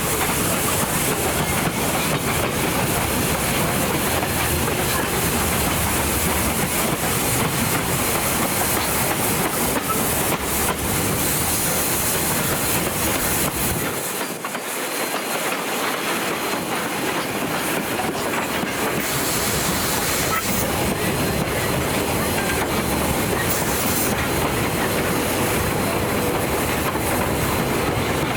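NZR Ww-class steam tank locomotive 480 and its carriages running on the track: a steady loud hiss with rumble and rail clatter. The low rumble drops away for a few seconds about halfway through.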